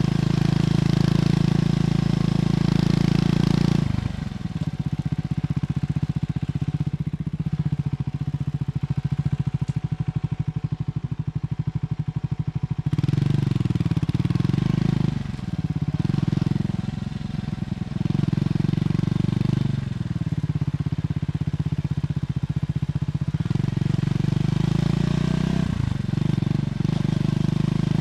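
Triumph Scrambler 400X single-cylinder engine heard through its stock exhaust on the move. It runs steadily under throttle, then about four seconds in the throttle closes and it drops to a quieter, low pulsing beat. About halfway through it picks up again, rising and falling in pitch through the gears.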